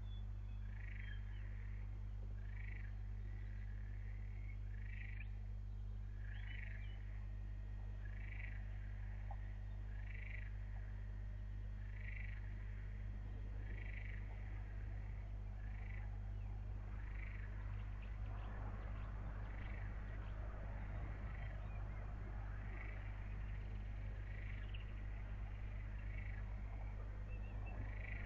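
A small animal's short call repeating about every two seconds, over a steady low hum. Partway through, a faint rustling noise rises beneath the calls.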